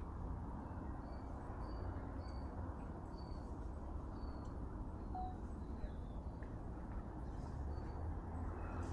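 Small birds chirping: short, high, thin notes repeated about every half second, over a steady low rumble.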